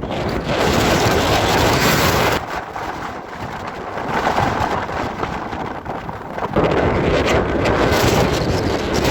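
Gale-force wind buffeting the microphone in gusts. It eases briefly about a third of the way in and again past the middle, then surges back hard near three-quarters through.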